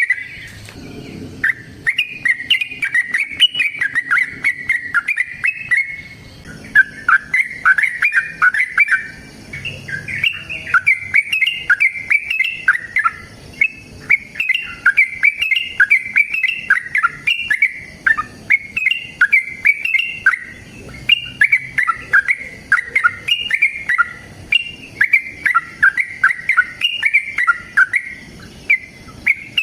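Yellow-vented bulbul (trucukan) singing in long, rapid runs of bubbly, warbling phrases, almost without pause, with brief breaks just after the start and about six seconds in.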